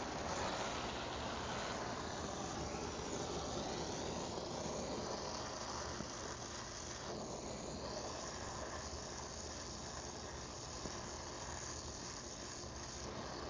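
Steady hiss of a small handheld torch flame heating a seized fastener to free it.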